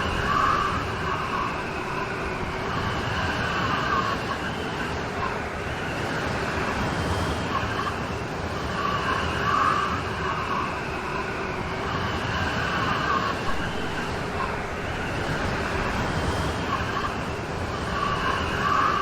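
Steady heavy rain falling, with a faint wavering higher tone that swells and fades about every nine seconds.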